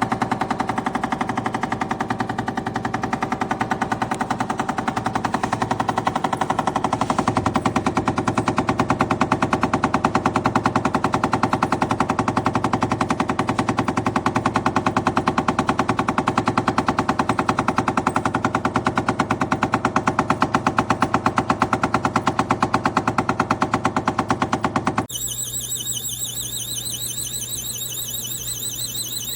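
GE Profile Opal 2.0 nugget ice maker making a loud, rapid, machine-gun-like rattling knock. It is the sound of hard-water scale buildup, a sign that the machine is about to stop working. About 25 seconds in the rattling cuts off and a quieter, warbling high-pitched sound takes over.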